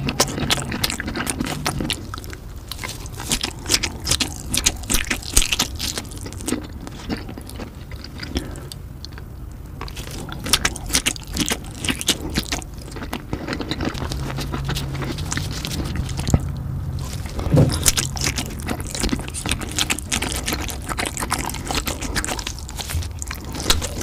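Close-miked eating of large sausages: big bites and chewing with many short, sharp wet clicks and smacks.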